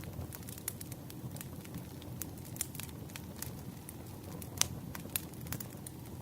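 Campfire burning: a low steady rumble of flames with irregular crackles and small pops of burning wood, one sharper pop a little past the middle.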